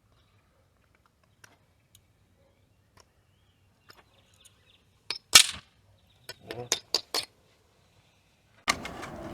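Scattered faint clicks, then one sharp clatter about five seconds in and a quick run of knocks, with music starting near the end.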